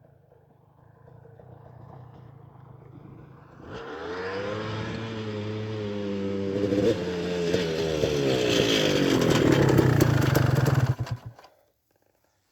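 An off-road vehicle's engine idles low, then about four seconds in revs hard under load up a steep hill climb. Its pitch wavers up and down and it gets loudest near the end, with clattering. It cuts off suddenly about a second before the end.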